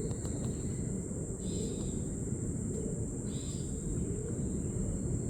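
Outdoor ambience: a steady low rumble under a continuous high-pitched insect drone, with two short chirps, one about a second and a half in and one about three and a half seconds in.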